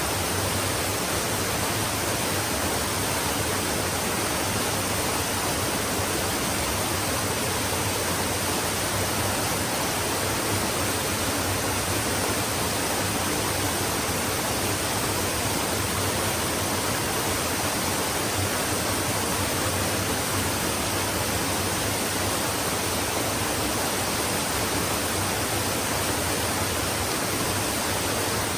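Flowing stream water rushing steadily, an even unbroken hiss that does not change.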